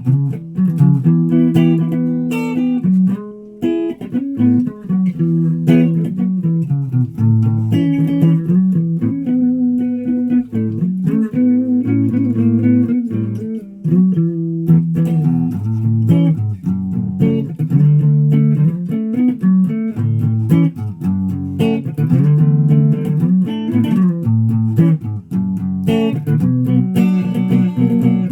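A guitar played by plucking, one note after another in a low register, with short pauses about four seconds in and about thirteen seconds in.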